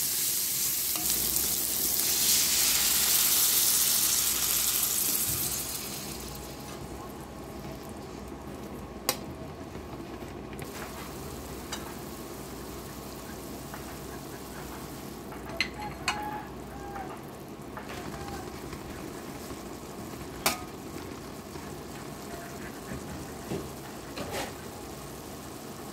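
Sliced onions, green chillies and small shrimp sizzling in hot oil in an aluminium karahi, stirred with a metal spatula. The sizzle is loud for the first five seconds or so, then settles into a quieter steady bubbling, with a few sharp clicks.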